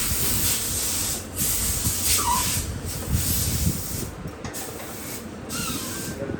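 Loud spraying hiss that cuts out briefly several times, over a low rumble.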